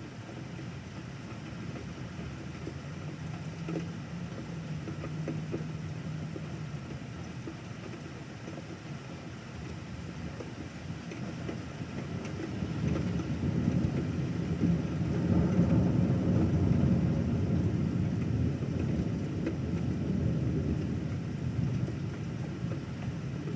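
Rolling thunder: a long low rumble that swells about halfway through and slowly fades, over the steady hiss of rain.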